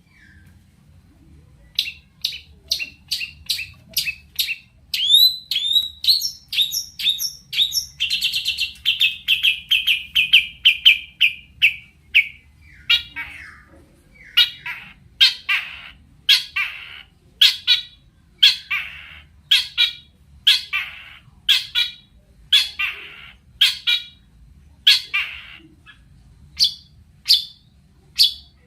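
Long-tailed shrike (cendet) singing. A string of short sharp calls is followed by a fast trill falling in pitch about a third of the way in, then scratchy calls repeated about three every two seconds.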